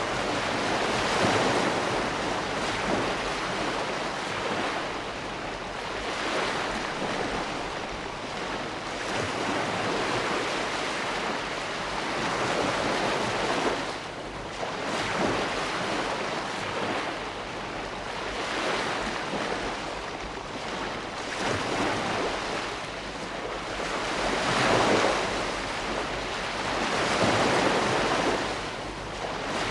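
Ocean waves breaking and washing on a shore, in a continuous hiss that swells and ebbs every few seconds as each wave comes in and draws back.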